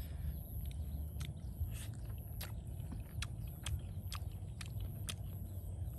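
A person chewing food, with short wet mouth clicks about twice a second over a steady low rumble.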